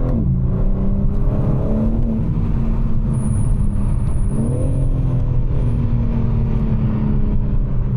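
2024 BMW M4 Competition's twin-turbo inline-six running hard under acceleration, heard from inside the car. Its pitch dips shortly after the start, climbs, and shifts again about halfway, as it changes gear. A thin high whistle sounds for about two seconds in the middle.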